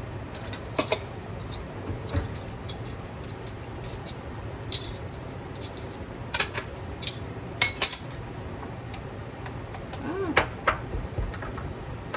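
Measuring spoons, spice jars and a small ramekin clinking and tapping while seasonings are measured out: a string of light, irregular clicks over a steady low hum.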